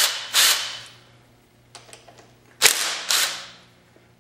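Short bursts of a power tool spinning off the 8 mm nuts of a motorcycle's front brake lever and reservoir clamp. There are two bursts at the start and two more about two and a half seconds in, each dying away quickly.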